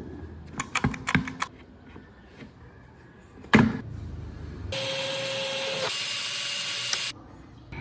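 Workshop handling sounds: a few light clicks and one sharp knock, then a steady hissing tool sound with a faint steady tone for a little over two seconds that cuts off suddenly.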